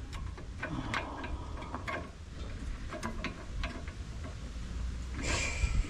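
Scattered metallic clicks and taps of hand tools working on a rear sway bar stabilizer link, a few a second at irregular spacing, with a short scraping rustle near the end.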